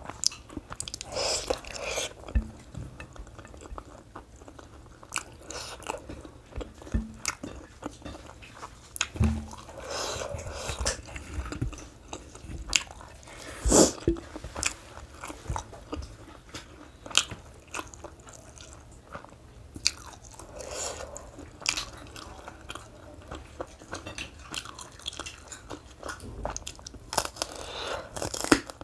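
A person chewing and crunching crunchy food in steady mouthfuls, with many sharp crunches and one louder crack about fourteen seconds in.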